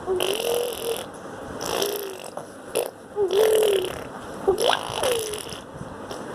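A young child making short wordless vocal sounds with the mouth: about five brief pitched noises that bend up and down, with spells of hiss between them.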